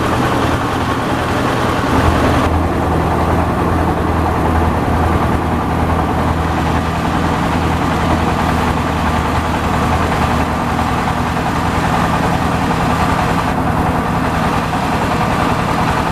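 Yanmar AW70V combine harvester running steadily: a diesel engine hum under the dense clatter and rush of its machinery. The high part of the noise eases slightly about two and a half seconds in.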